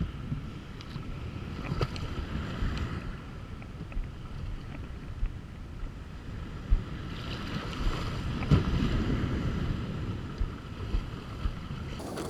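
Wind buffeting the microphone over water sloshing around a kayak, with scattered short knocks against the hull.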